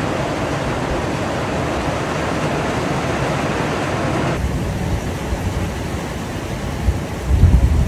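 Heavy rain pouring down in a steady, loud hiss. The hiss turns duller about four seconds in, and a low rumble comes near the end.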